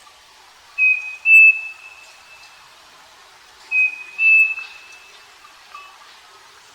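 Striped cuckoo singing its two-note whistled song twice, a short note followed by a slightly higher, longer held note, with fainter, lower whistles in the background.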